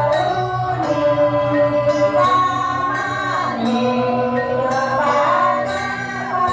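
Balinese janger music: voices singing long held notes that slide between pitches, over gamelan accompaniment with a steady pulsing low beat.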